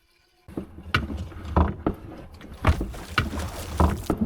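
Kayak hull knocking and thudding with water sloshing as a person getting in loses balance and tumbles out. It starts abruptly about half a second in with a run of irregular knocks.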